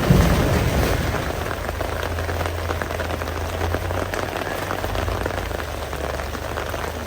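Steady rain falling, with many individual drops ticking on a nearby surface, over a steady low rumble.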